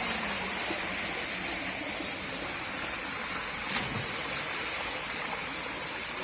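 Waterfall rushing steadily, an even hiss of falling water. One brief sharp click sounds a little past the middle.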